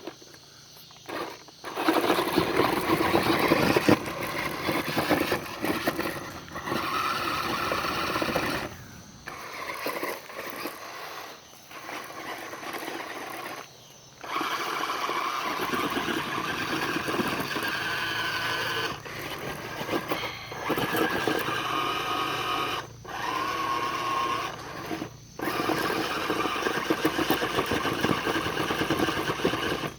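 Electric motor of an R/C monster truck whining as it spins its tire in loose rocks and gravel, kicking up stones. It runs in bursts of a few seconds each, with short breaks between.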